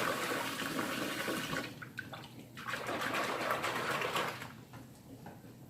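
Water running from a tap into a container for vinegar-and-soap cleaning water, cutting off briefly about two seconds in, then running again and stopping about four and a half seconds in.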